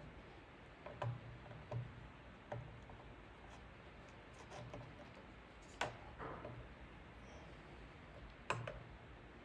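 Faint, irregular light taps and clicks of a tool working over a plastic ATV fender during plastic-weld touch-up, about ten in all, the sharpest one about six seconds in.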